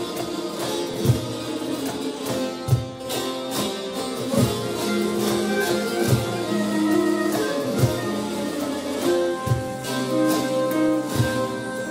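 Turkish folk music ensemble playing, led by plucked saz strings, with held notes and a low drum beat about every second and a half.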